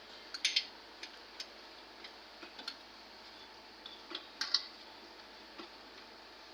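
A dozen or so light, sharp clicks and taps at irregular intervals over a faint steady hiss, with the loudest two near the start and just past the middle.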